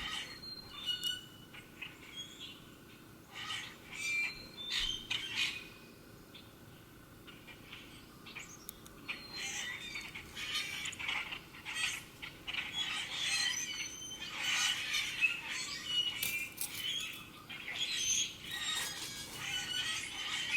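Several wild birds calling and singing in short chirps and trills, sparse at first and growing into a busy chorus about halfway through.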